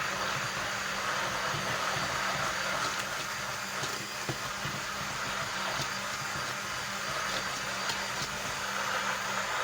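Hand blender running at a steady speed, blending tahini with garlic, vinegar and water into a sauce; its motor hum holds one pitch.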